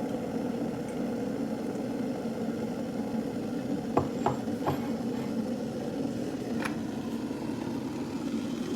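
Stainless steel electric kettle at a rolling boil: water rumbling steadily, with a few light clicks around the middle.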